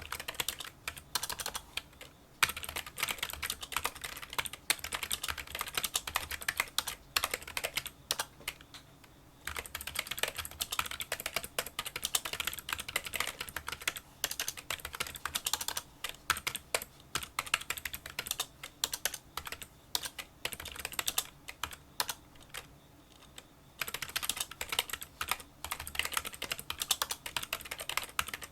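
Fast touch-typing on a Kinesis Freestyle Solo split keyboard with membrane key switches: a dense run of light, small clicking keystrokes, broken by brief pauses about two seconds in, near nine seconds and again a little past twenty seconds.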